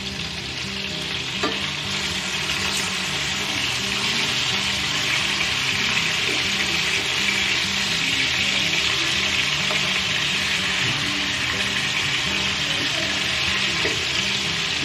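Marinated chicken pieces shallow-frying in hot oil in a nonstick pan, sizzling steadily as they are turned over, with a couple of light clicks from the metal tongs early on against the pan.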